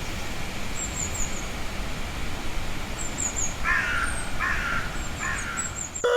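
Steady rush of a river below, with a crow cawing three times about four seconds in and a small bird's thin, high chirps throughout.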